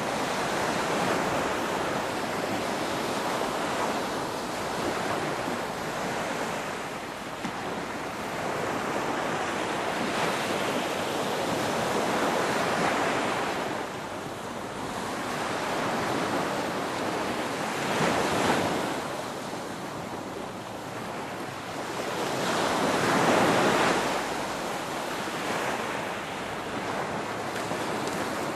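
Ocean waves breaking and washing in, a continuous rush that swells and eases every few seconds, with the strongest surges about two-thirds of the way through and again near the end, and some wind on the microphone.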